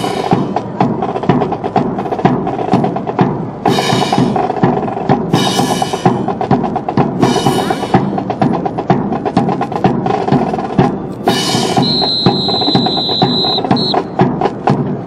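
Dense, rapid wooden clacks and slaps of a drill team's rifles being handled in precision drill, over drum-like percussion, with several sharp crashes. About 12 seconds in, a whistle is blown in one long blast followed by a short one.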